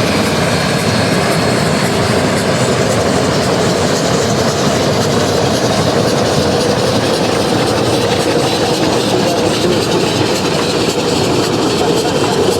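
Geared steam logging locomotive running past: a loud, steady rush of noise with no clear separate beats.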